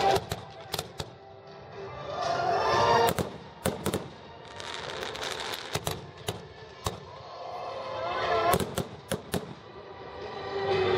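Fireworks exploding: many sharp bangs, some in quick clusters, heard over music.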